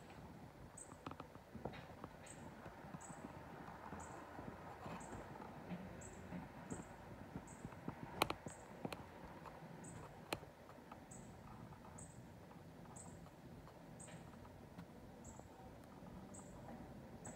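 A small bird repeating a short, thin, very high call note that falls slightly, evenly a little more than once a second. Two sharp clicks sound a little past halfway.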